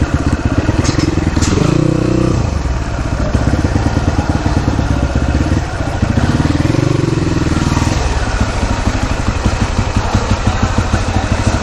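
Dirt bike engine running with an even, rapid pulsing, its pitch rising briefly about two seconds in and again between about six and eight seconds.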